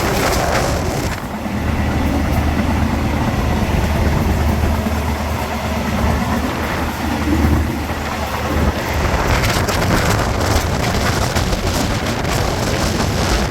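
Passenger train in motion: the steady low rumble and rattling track noise of a moving railway carriage, swelling louder for a couple of seconds about two-thirds of the way through.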